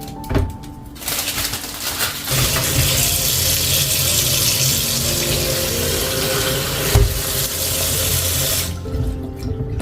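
Kitchen tap running water in a steady stream, starting about a second in and shut off near the end, over soft background music.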